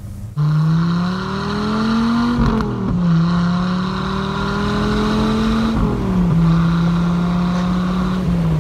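1994 Dodge Viper RT/10's V10 engine pulling under acceleration, its pitch rising, then dropping sharply at an upshift about two and a half seconds in and again about six seconds in. After the second shift it runs steadily.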